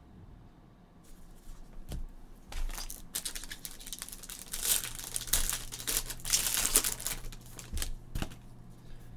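Plastic wrapping on a trading card box or pack crinkling and tearing as it is opened, with scattered clicks and a dense stretch of rustling in the middle.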